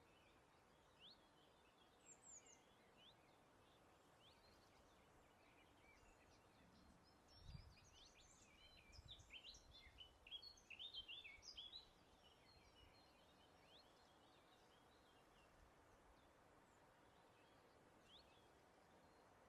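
Faint birdsong: scattered short, quick chirps from several small birds, busiest in a chattering stretch from about seven to twelve seconds in, over a soft steady hiss of breeze.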